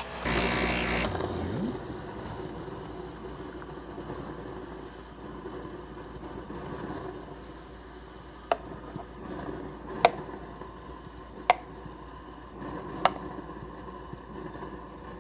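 A loud hiss, typical of an espresso machine's steam wand, that cuts off about a second in. Four sharp ringing clinks follow in the second half, about a second and a half apart.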